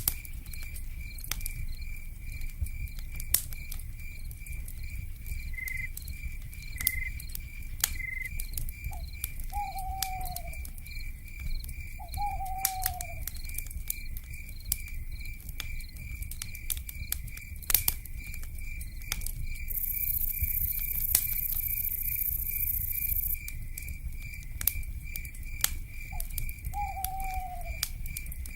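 Night-time ambience of a wood fire crackling with irregular sharp pops over a low steady rumble, an insect chirping in a steady pulsing rhythm, and an owl giving short falling hoots, twice in the middle and twice near the end.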